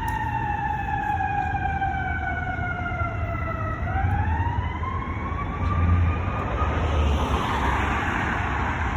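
Fire engine siren in a slow wail: its pitch falls for about four seconds, climbs again, then fades out near the end. Under it runs the low rumble of the fire truck's engine.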